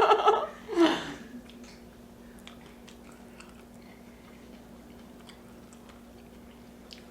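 A person chewing food quietly close to the microphone, with faint scattered wet mouth clicks. A short laugh ends about a second in.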